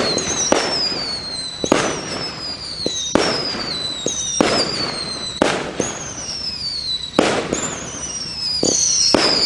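A 24-shot 200 g consumer firework cake firing shot after shot: screaming tails, each a whistle falling in pitch, overlapping one another, with sharp bangs about every one to two seconds.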